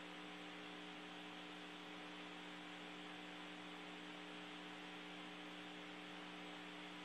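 Faint steady hum of a few low tones over a soft hiss: background noise on the audio feed from the space station cabin.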